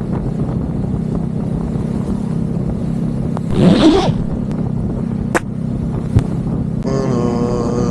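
Honda CBR500R parallel-twin engine running steadily under way, with wind noise over it. About halfway through there is a brief rising whoosh, then two sharp clicks, and near the end a stack of steady tones sets in.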